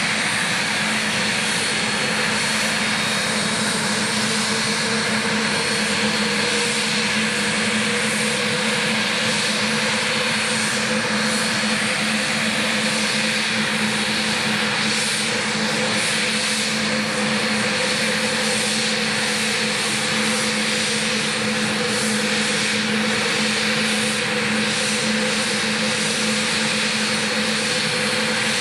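Saab 105 trainer's twin Turbomeca Aubisque (Volvo RM9) turbofan engines running steadily on the ground, a constant roar with a steady hum and a faint high whine, holding the same pitch throughout.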